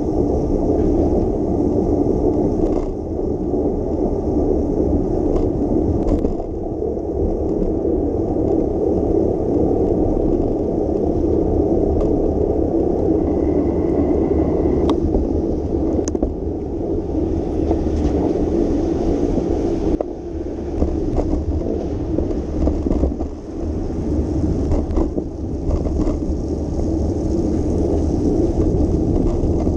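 Steady rolling rumble and hiss of bicycle tyres on wet pavement, mixed with wind noise on the microphone while riding, with occasional small clicks and knocks from the bike going over the road surface.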